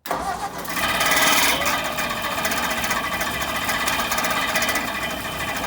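Frandee Sno Shu Model E snowcat's engine running on full choke for a cold start, a rapid mechanical clatter that starts suddenly and stays steady.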